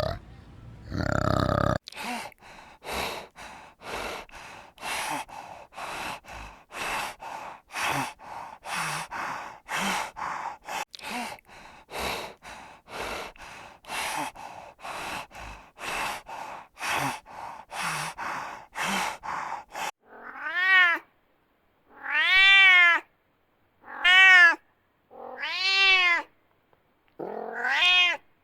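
Animal calls: a long run of short calls repeated about twice a second. About two-thirds of the way through it changes abruptly to five or six separate, louder, drawn-out calls, each rising and then falling in pitch.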